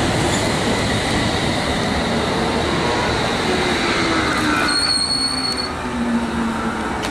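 A train running past on the tracks: a steady, dense rumble of wheels on rail, with a brief high-pitched squeal about five seconds in.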